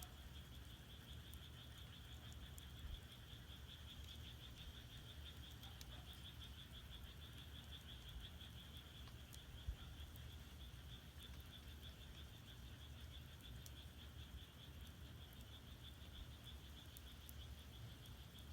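Frogs calling in a faint, steady high pulsing trill, over the low rumble of firewood burning in a firebox with a few soft crackles and one sharper pop about ten seconds in.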